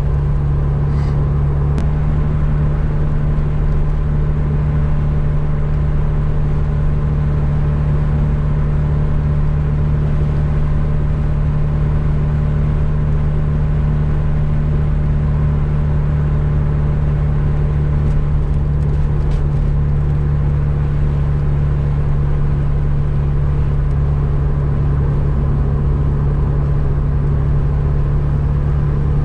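Mazda RX-7 FC's 13B turbo twin-rotor engine running at a steady speed, a constant drone with no revving.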